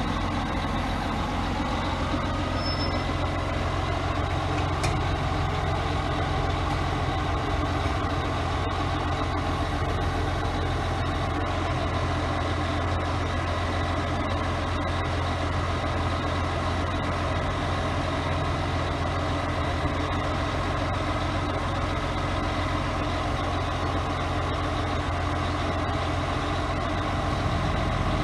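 1976 Mack DM868 roll-off truck's diesel engine running steadily at a constant speed, with no revving.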